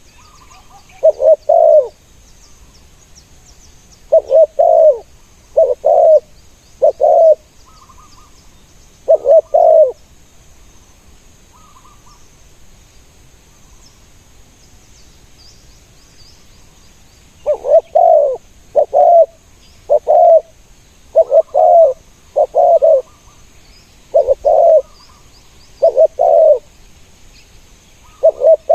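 Spotted doves cooing in short repeated phrases of two or three notes, with a pause of several seconds in the middle before the cooing resumes faster.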